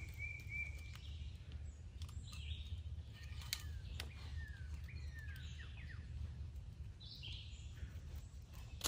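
Woodland birds calling: a high held whistle at the start, then several short downward-slurred whistles in the middle, over a steady low rumble. Faint scattered ticks and rustles come from hands untying cord from a tree trunk.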